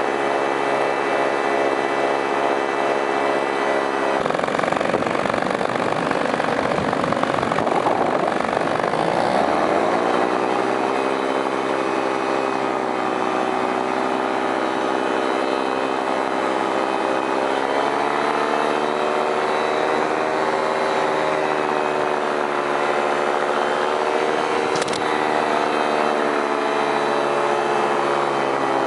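Paramotor engine and propeller running in flight, its pitch shifting with the throttle: a rougher stretch a few seconds in, a rise in pitch, another step up, and a fall near the end. A single brief click is heard near the end.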